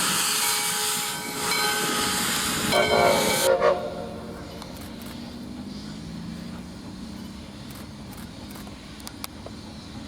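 Steam locomotive whistle sounding in long blasts over heavy steam hiss, cutting off sharply about three and a half seconds in. Afterwards a much quieter stretch with faint low tones.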